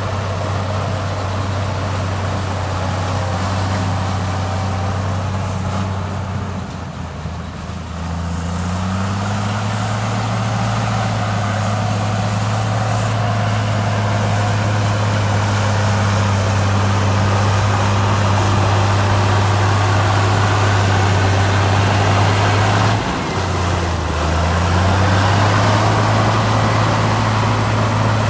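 Heavy diesel engine of earthmoving machinery running with a steady low drone. It drops back twice, about six seconds in and about five seconds from the end, and rises again in pitch each time as the load or throttle changes.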